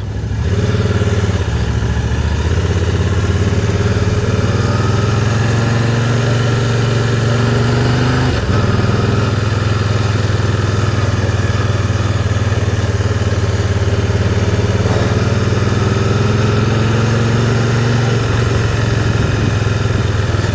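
Can-Am Spyder three-wheeler's three-cylinder engine running at low riding speed, its pitch climbing slowly. It dips briefly about eight seconds in, then climbs again.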